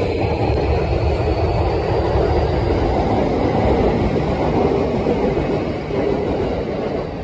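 Electric commuter train running along the platform: steady noise of the train on the rails, with a high motor whine rising slowly in pitch over the first few seconds.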